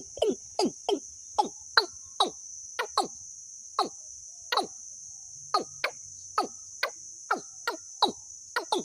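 A bird giving short calls, each dropping quickly in pitch, repeated at an uneven pace of about two or three a second, over a steady high-pitched insect-like hiss, as in a bird-trapping lure recording.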